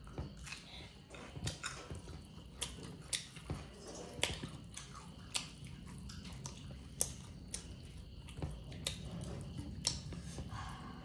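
A person eating chicken and cucumber: chewing and biting, with sharp crunches and mouth clicks at an irregular pace.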